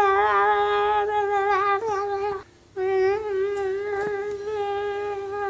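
A child humming one long, steady note in a single held pitch, with a short break about two and a half seconds in before the hum carries on.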